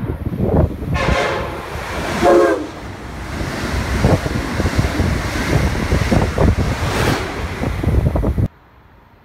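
Amtrak Acela Express high-speed train sounding its horn in short blasts, the last one lower, then rushing past at speed with wheels clacking over the rail joints. The sound cuts off abruptly near the end.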